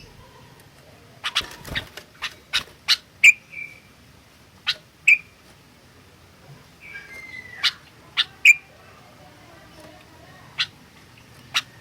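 Sooty-headed bulbul giving short, sharp call notes at irregular intervals, some with a brief whistled tail. The calls come in clusters with pauses between them.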